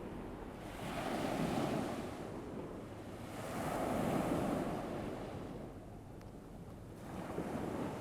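Ocean waves washing onto a shore, rising and falling in slow surges, about three swells in a few seconds.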